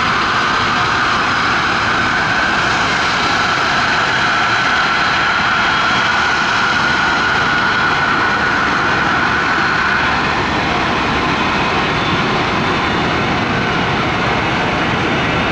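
Jet engines of an Airbus A320neo running during push-back: a steady loud roar with a high whine that fades about ten seconds in.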